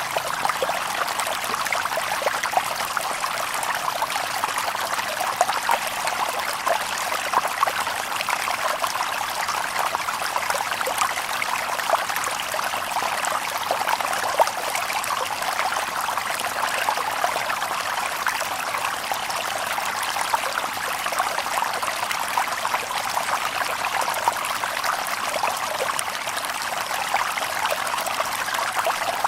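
A shallow stream babbling over stones: steady, dense water noise with many small splashes and trickles, no birds.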